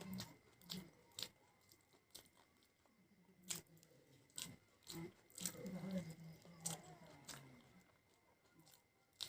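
Close-up chewing and crunching of fried snack food, with sharp wet mouth clicks at irregular intervals.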